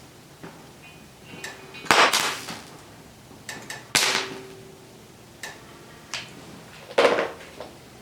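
Flux-core wire-feed welder striking an arc in three short bursts of arc noise, each under half a second, a couple of seconds apart.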